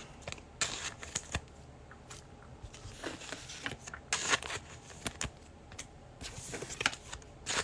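2021 Panini Prizm football trading cards handled by hand, slid and flipped past one another: a series of short, irregular swishes and flicks.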